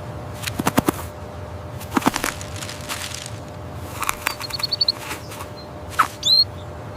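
Outdoor nature ambience with birds: a steady hiss, a few short bursts of rapid clicks like flapping wings, a quick run of high chirps past the middle and a short sweeping bird call near the end.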